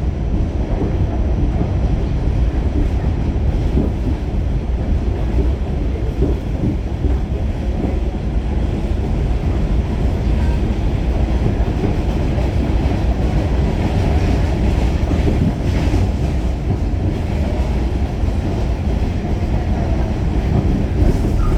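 Pullman Standard R46 subway car running between stations, heard from inside the car: a steady, loud rumble of the wheels on the rails and the running gear, with some clatter over the rail joints.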